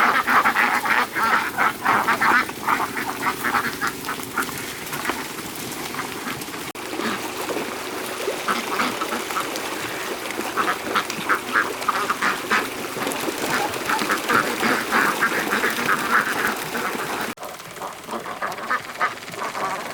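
Ducks quacking in rapid, continuous runs of calls. The sound breaks off abruptly and resumes about seven and seventeen seconds in.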